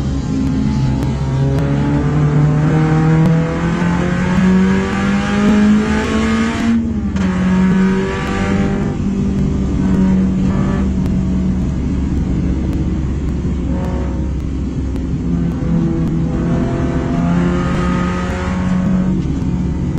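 Daihatsu Gino race car's swapped-in Perodua Alza 3SZ-VE 1.5-litre four-cylinder, heard from inside the cabin at racing pace. The engine climbs in pitch under acceleration, breaks off briefly about seven seconds in, then holds high revs with small rises and falls.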